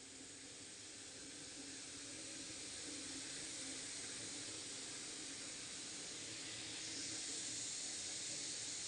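A steady hiss that grows gradually louder and steps up slightly about seven seconds in.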